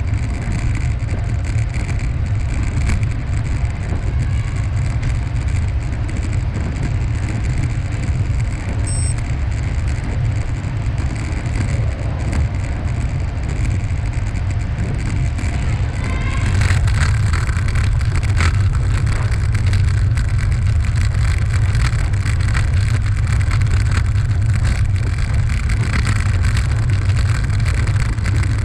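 Steady wind rumble on the microphone while riding, with road and rolling noise. It gets louder and brighter about two-thirds of the way through, with faint rattling ticks.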